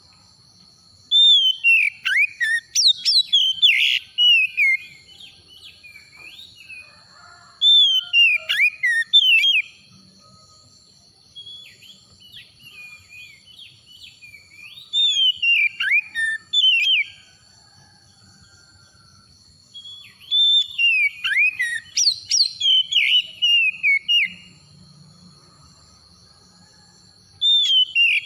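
Oriental magpie-robin (kacer) singing: bursts of loud, varied whistled phrases with rapidly rising and falling notes, about five bouts of a few seconds each, separated by short pauses.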